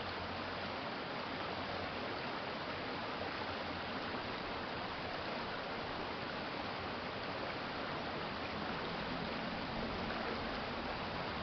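Urban stream flowing steadily, an even rush of running water.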